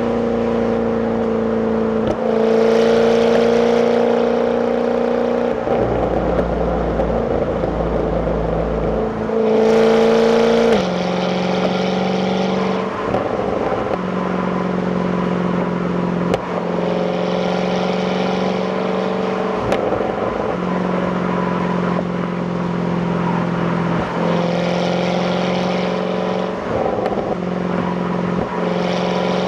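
Jaguar F-Type's supercharged 5.0 V8 on its stock exhaust, heard from the passenger seat while driving at moderate speed. The engine note holds steady for a few seconds at a time, then steps in pitch as the gears change, rising and getting louder about ten seconds in.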